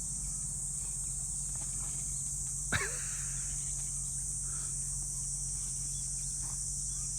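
Steady high-pitched chorus of insects shrilling, with a low steady hum beneath. About three seconds in, a brief sharp sound drops quickly in pitch.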